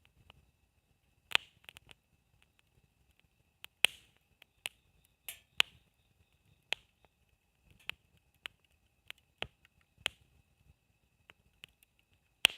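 Campfire wood crackling: sharp pops and snaps at irregular intervals, about a dozen, with a brief hiss of burning wood about five seconds in. A faint steady high tone runs underneath.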